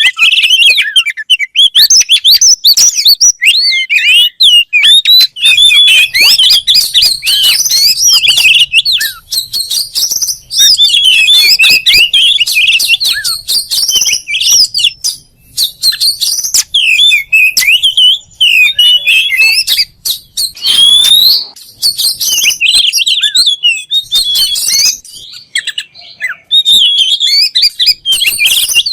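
Oriental magpie-robin (kacer) singing a long, fast, varied song of whistles, chirps and trills, with only brief breaks.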